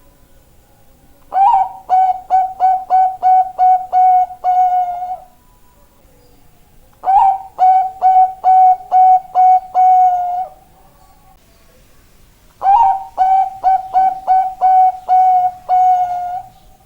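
Zebra dove (Bangkok-type perkutut) singing: three phrases of quick, even-pitched staccato coos, each run ending in a longer drawn-out note, with pauses of a second or two between phrases.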